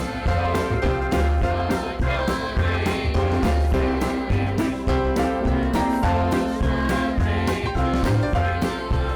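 Church choir singing a gospel song over an instrumental accompaniment with a steady beat and bass.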